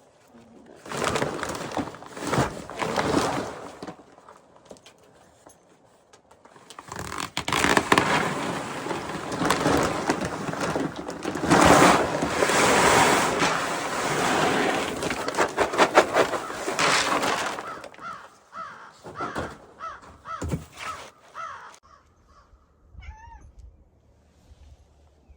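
Pelleted reindeer feed being poured out with a dense rattling hiss, in a short spell and then a longer one of about ten seconds. Several short animal calls follow near the end.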